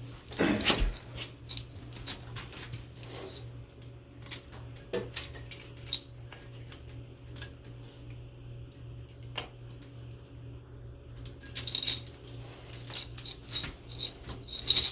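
Scattered light metallic clinks and taps of parts and tools being handled on an ATV engine's cylinder during a top-end rebuild, with a steady low hum underneath.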